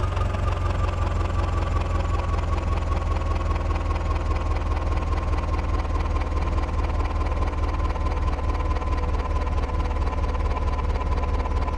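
Heavy diesel engine running steadily with a deep rumble and fast even pulsing, and a thin whine that sinks slightly in pitch over the first few seconds.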